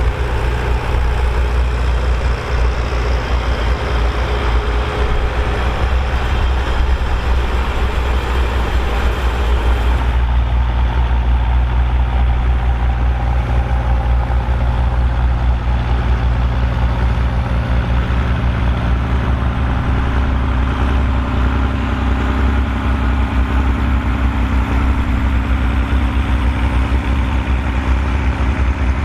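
Volvo BM 2654 tractor's diesel engine running steadily while pulling a five-furrow plough. About ten seconds in the higher hiss drops away suddenly, leaving the engine's low drone.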